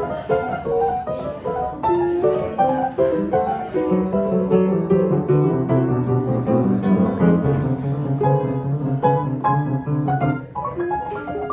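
Instrumental music led by piano: a melody of quick notes, with held low notes entering about a third of the way in.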